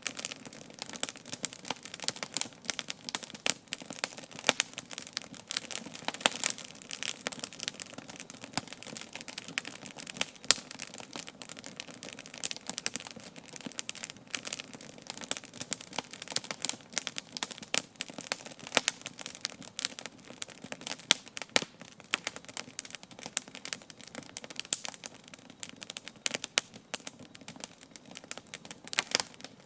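Wood fire burning steadily, with dense, irregular crackles and pops over a soft hiss.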